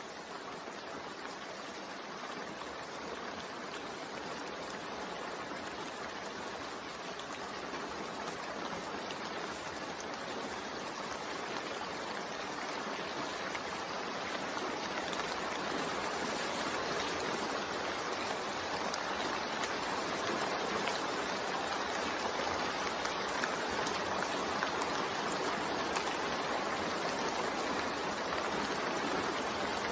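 Steady rain falling, a continuous even hiss that slowly grows louder.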